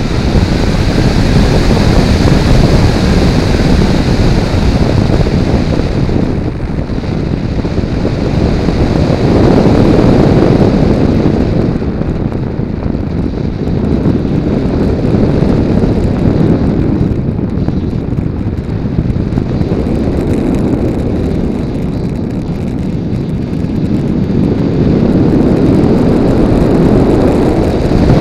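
Heavy wind rush on the onboard camera of a Multiplex Blizzard electric RC model plane in flight, swelling and easing every few seconds. A higher whine from the electric motor and propeller is heard in the first several seconds and fades after about ten seconds.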